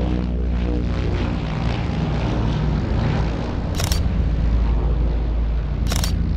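Lockheed L-1049 Super Constellation's four Wright R-3350 radial engines and propellers running at high power on takeoff. A propeller drone falls slightly in pitch in the first second and gives way to a heavy, steady low rumble. Two sharp clicks come about two seconds apart, near the middle and near the end.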